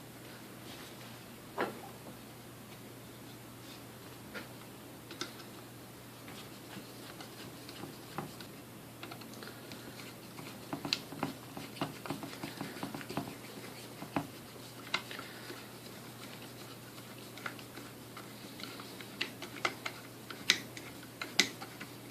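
Scattered light clicks, taps and scrapes of small metal parts of a Sunbeam Mixmaster Model 12 motor being handled and fitted back together by hand. The clicks come thicker in the middle and near the end, where the sharpest ones fall.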